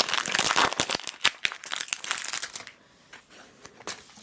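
Foil booster-pack wrapper crinkling and tearing as it is opened, with dense crackling for about two and a half seconds, then only a few faint rustles.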